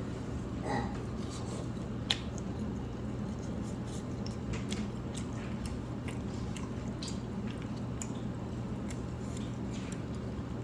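Close-up eating sounds of a person chewing noodles: scattered wet mouth clicks and squishes, with one sharper click about two seconds in, over a steady low hum.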